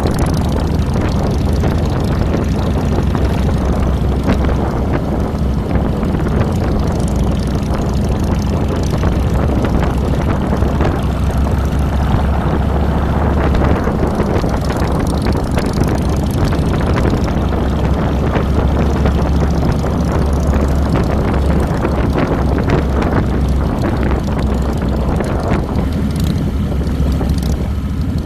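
2007 Harley-Davidson Fat Boy's Twin Cam 96 V-twin engine running steadily under the rider, picked up at the handlebars, its sound strongest in the low end and holding an even level throughout.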